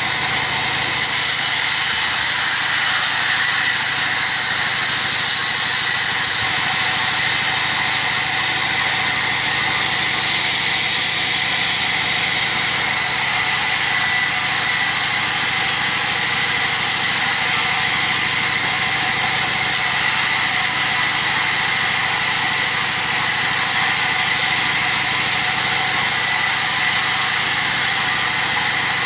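Motor-driven workshop machine running steadily at constant speed, with a high whine over a dense hiss.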